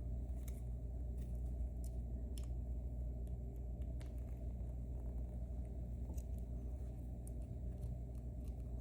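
Faint, sharp metallic clicks every second or two from small tools working at a lock cylinder's retaining C-clip, over a steady low hum.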